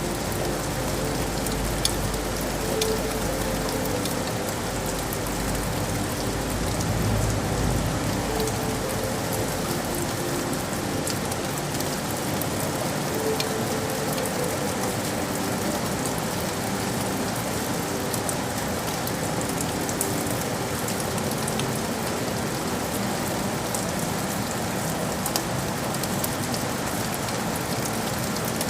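Steady rain falling on hard city surfaces, with scattered sharper drip clicks. A low rumble runs under it for the first ten seconds or so, then fades.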